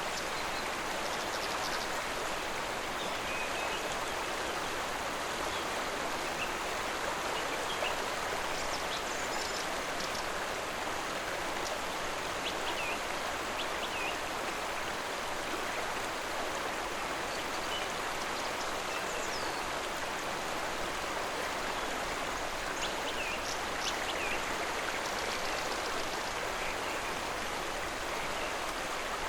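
A stream of flowing water running steadily, an even rushing with no breaks. Faint brief high chirps come here and there above it.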